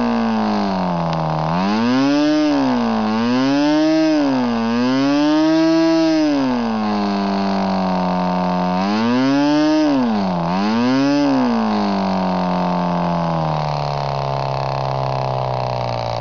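Norvel .061 model airplane engine, converted to a compression-ignition diesel with a custom head, running with a propeller. It speeds up and slows down about six times in quick swells, then settles to a slower, steady, lower-pitched run for the last few seconds.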